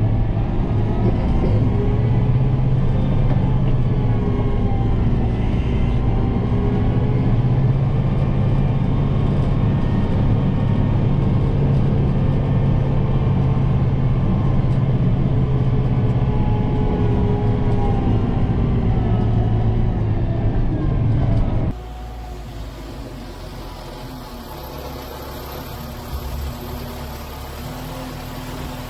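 Kubota M7060 tractor's four-cylinder diesel engine running steadily at working speed while the loader carries a heavy load of snow, its pitch drifting a little. About 22 seconds in, the sound drops abruptly to a much quieter, lower running, like an idle.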